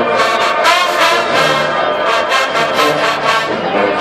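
HBCU marching band playing loud, its brass section of trombones and trumpets carrying the tune over a steady drum beat.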